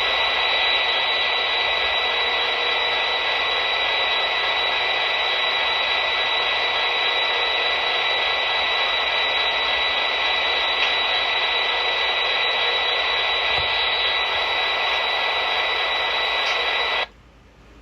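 Tsunami 2 sound decoder in an HO-scale SD60M model locomotive playing its diesel sound effect through the model's small speaker: a loud, steady hiss with a high whine over it. It cuts off suddenly near the end.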